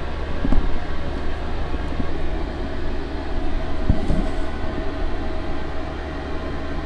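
Steady low mechanical hum with a few faint pitched lines above it, like a fan or heater running, and a couple of faint knocks about half a second in and about four seconds in.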